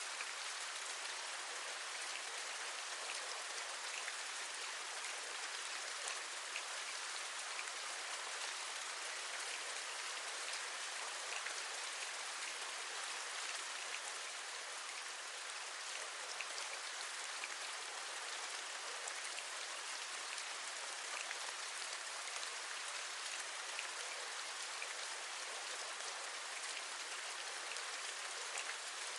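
Steady rain, with many small individual drops ticking as they hit, as on a window ledge.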